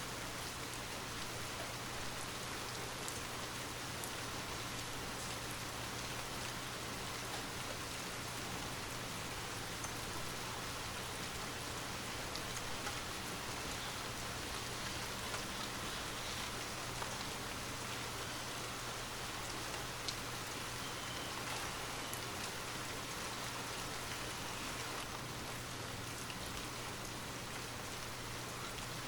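Steady rain falling, a dense even hiss with scattered patters of individual drops and a low steady hum beneath.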